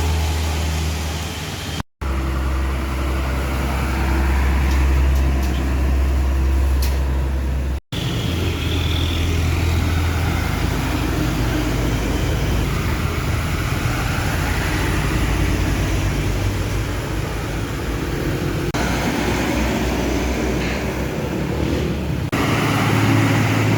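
Heavily loaded trucks' diesel engines running with a deep, steady low drone, heard in several short clips cut together. The sound drops out briefly at cuts about two and eight seconds in.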